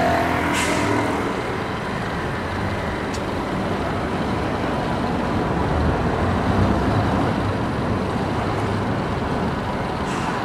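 Train running on the elevated railway tracks, a steady loud rumble, with a short hiss of air about half a second in.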